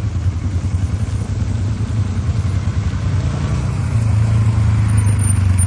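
Vehicle engine running with a steady low hum, growing louder about four seconds in.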